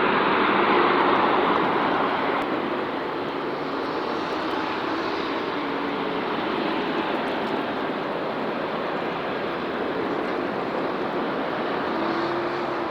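Jet airliner engines going past, loudest in the first two seconds and then easing to a steady, slightly lower noise with a faint whine underneath.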